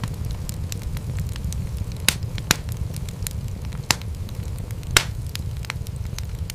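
Wood fire crackling, with a steady low rumble of flames under many small clicks and a few sharper pops about 2, 2.5, 4 and 5 seconds in.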